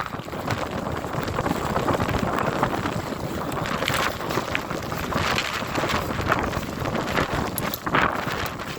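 Blizzard wind gusting and buffeting the microphone in uneven surges.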